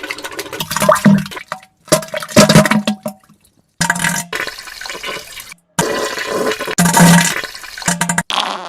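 Wet, watery toilet sound effects in a run of short clips, about five in a row, each cutting off abruptly.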